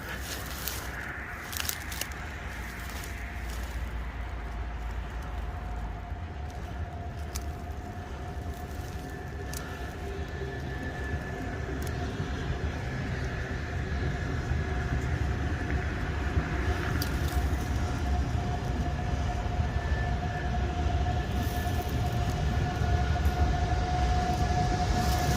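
A train approaching on the railway line: a low rumble with a steady whine that grows louder throughout. A few sharp clicks in the first few seconds.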